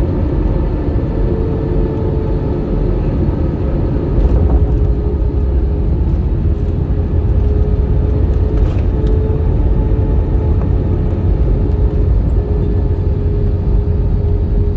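Airbus A320 jet engines running, a steady low rumble with a faint steady whine over it.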